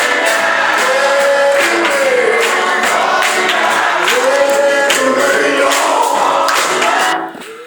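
Live gospel singing over band accompaniment with a steady beat, the voices holding and bending long notes. The music cuts off abruptly about seven seconds in.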